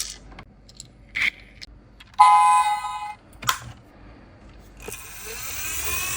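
Scattered clicks and light clinks of a die-cast model truck being handled. A little past two seconds in comes a steady electronic beep lasting about a second.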